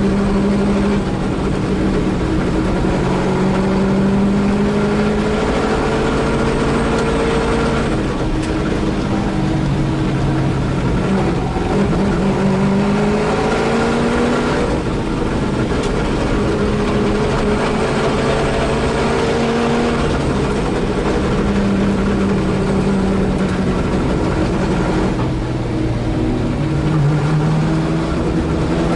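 Holden Torana A9X race car's V8 engine at racing speed, heard from inside the car. The revs climb and drop again and again through gear changes and lifts off the throttle.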